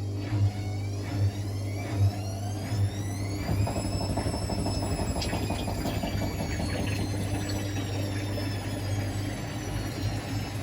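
Hotpoint WML540 washing machine turning its drum: a steady low hum with regular thumps about every second at first, then the motor's whine rises in pitch a few seconds in and slowly falls away.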